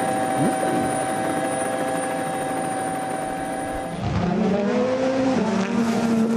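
Rally car engines at full noise: a steady engine note, then about four seconds in an abrupt cut to a car accelerating, its pitch climbing and then stepping down about a second later.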